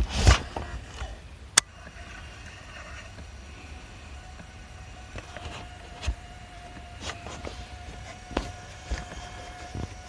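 Sharp clicks and knocks from handling a small portable cassette recorder, a loud one right at the start and several more spaced through, over a steady low hum; a faint steady tone comes in about four seconds in.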